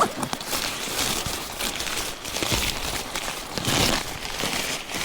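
Rustling and crinkling of material being handled, with many small clicks and crackles throughout.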